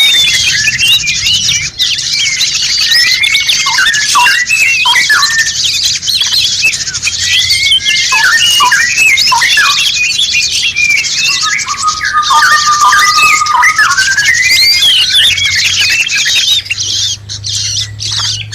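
Dense chorus of many songbirds, with overlapping quick chirps, whistles and squawks over a steady high hiss. About twelve seconds in, one bird gives a long trill that rises at its end.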